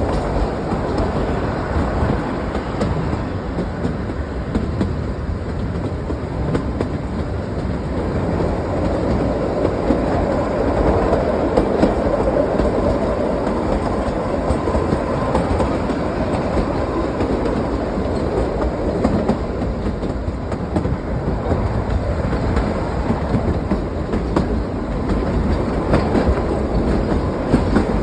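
Kalka–Shimla narrow-gauge toy train running: a steady rumble of the wheels on the rails, with occasional clicks as the wheels pass over rail joints.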